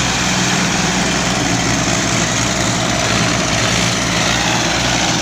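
Tractor diesel engine running steadily at a constant speed, with no revving.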